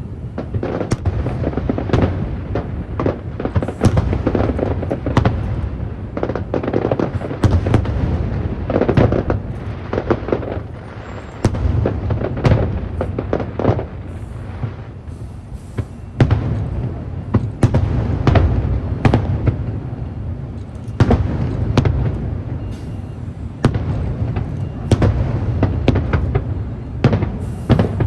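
Aerial fireworks display: a dense, irregular run of sharp bangs and crackling bursts over deep, rumbling booms, without a break.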